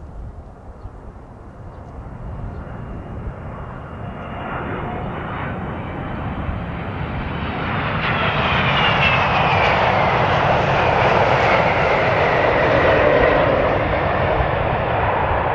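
A twin-engine widebody jet airliner passing close by, its engine noise building steadily for several seconds. It stays loud through the second half, with a whine that falls in pitch as the aircraft goes past.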